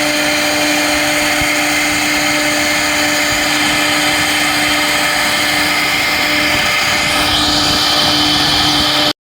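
CNC router spindle running steadily while cutting a 10 mm ESD sheet: a constant tone over loud cutting noise. About seven seconds in a higher note joins, and the sound cuts off abruptly a little after nine seconds.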